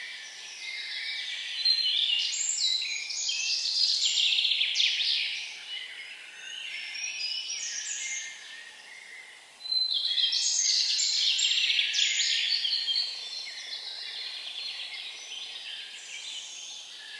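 Songbirds singing, with long, rapid trilled phrases. The loudest phrase starts abruptly about ten seconds in and lasts several seconds.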